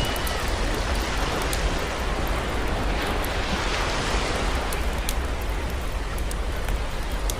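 Campfire crackling, with sharp pops here and there, over the steady wash of sea waves that swells and eases.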